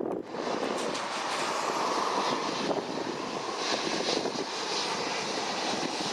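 Jet airliner's engines running steadily as the plane taxis: a continuous rushing turbine noise with a whine around the middle of the range.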